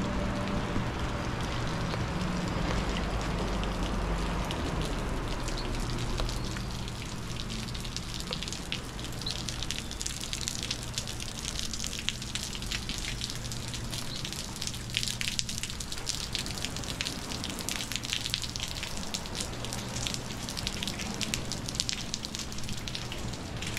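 Rain falling close by, with dense sharp drop ticks from about seven seconds in. A low rumble fades away over the first six seconds.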